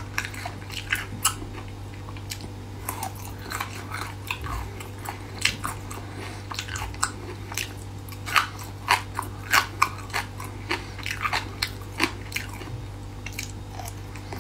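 Close-up chewing of spicy braised beef-skin strips: many sharp, crisp crunches at an irregular pace, denser and louder in the second half. A steady low hum runs underneath.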